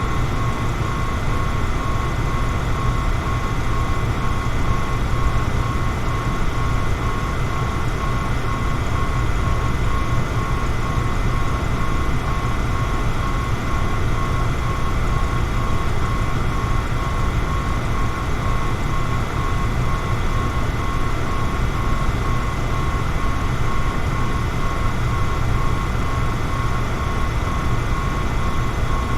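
Electric fan running steadily: a continuous low rush of air with a thin, even whine above it.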